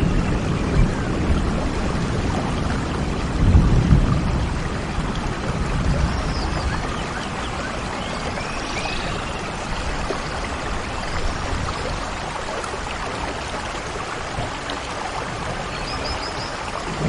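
Steady rush of flowing water, with a few short high chirps now and then and low rumbling gusts on the microphone about three and a half seconds in.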